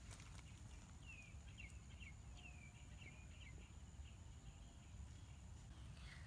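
Faint outdoor quiet with a bird giving a string of short, falling chirps for a couple of seconds, over a low steady rumble and a thin steady high tone that stops near the end.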